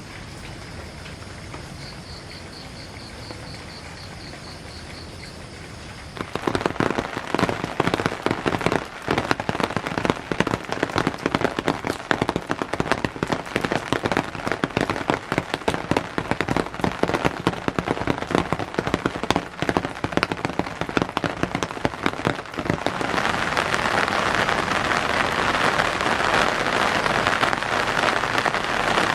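Rain falling. It is light for the first six seconds, then heavy drops patter densely and loudly on a nearby surface. From about twenty-two seconds it settles into a steady downpour hiss.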